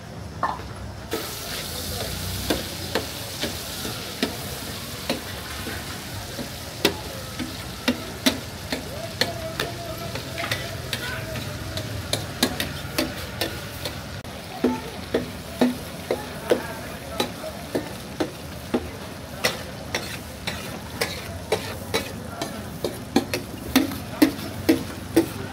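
Pieces of liver sizzling in oil on a large flat tawa griddle, the sizzle starting about a second in. A flat metal spatula clacks and scrapes against the griddle about once or twice a second, coming quicker and louder near the end.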